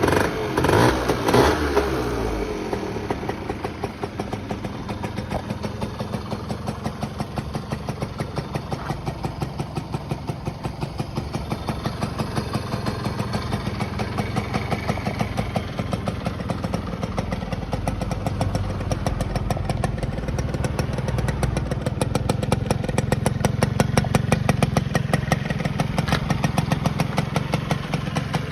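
Suzuki Van Van RV50's small two-stroke single-cylinder engine running: a couple of quick revs in the first two seconds, then a steady run with a fast, even pulse.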